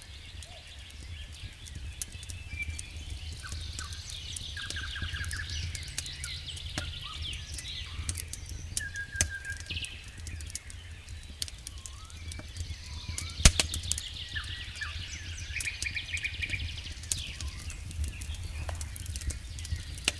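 Songbirds chirping and trilling over a campfire crackling with scattered sharp pops, one much louder pop about 13 seconds in, above a steady low rumble.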